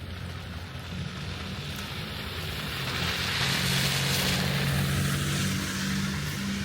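A motor vehicle passing on a snowy street: a low engine hum with tyre hiss through slush that swells to a peak midway and then eases off.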